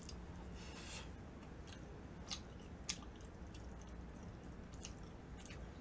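Soft, wet chewing and lip smacks of someone eating kimchi udon noodles close to the microphone, a scatter of short smacks and clicks over a low steady hum.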